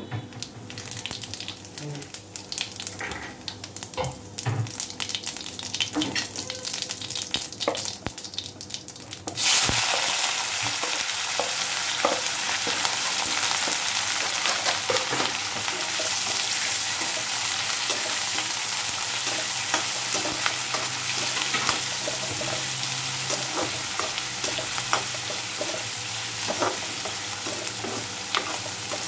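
Cumin seeds crackling in hot oil in a kadai while a steel spoon stirs them. About nine seconds in, chopped onions go into the oil and a loud, steady sizzle starts, with a metal spatula scraping and clicking against the pan as they fry.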